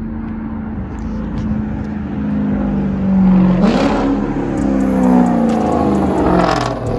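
Straight-piped Dodge Charger R/T 5.7 L Hemi V8, with no mufflers, resonators or catalytic converters, running at a steady note, then accelerating hard about halfway through, louder and rising in pitch, before the pitch falls away near the end.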